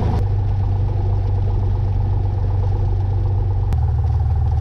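Cessna 182's piston engine running steadily at low power while taxiing, a low drone. A sharp click comes a bit under four seconds in, after which the engine note shifts slightly.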